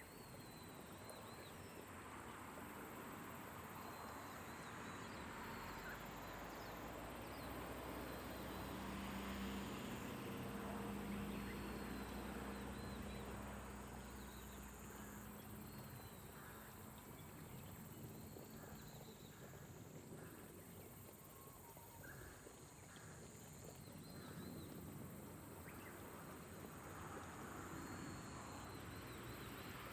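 Light rain falling steadily, with faint high chirps throughout and a short run of repeated calls past the middle. A low hum swells and fades in the first half.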